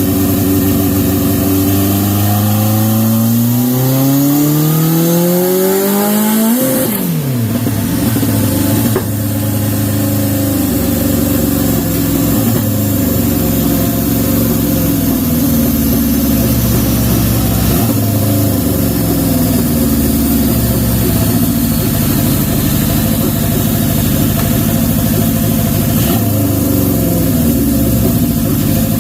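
Turbocharged Honda CB750's SOHC inline-four running in gear on a dyno. The revs climb steadily for about six seconds, then drop suddenly, and the engine runs on with the rpm wavering up and down.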